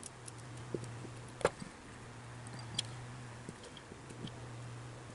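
Small scattered clicks and ticks of brittle old wire insulation being picked off a motor's leads by hand, with sharper clicks about a second and a half in and again near three seconds, over a steady low hum.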